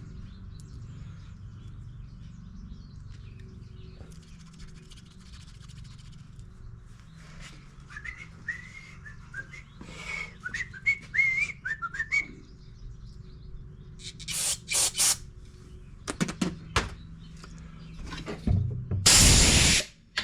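A man whistling a short wavering tune for a few seconds, then several short hissing blasts while a small-engine carburetor's jets are cleaned. The last and loudest blast lasts about a second and a half and cuts off suddenly.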